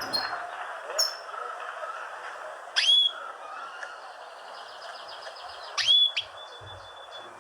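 Small birds chirping and calling: two loud whistled calls about three seconds apart, each sweeping sharply up and holding a high note, with a fast high trill and scattered short chirps between them.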